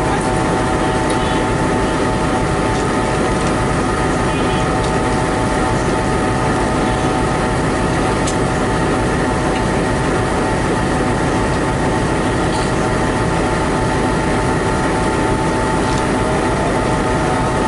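Locomotive running close by: a steady, loud drone with a constant high whine over it, unchanging throughout.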